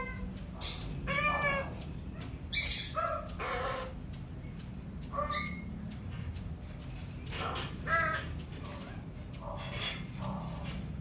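Greater bird-of-paradise calling: a string of short, loud calls with rich overtones, coming in small groups a second or two apart. A steady low rumble runs underneath.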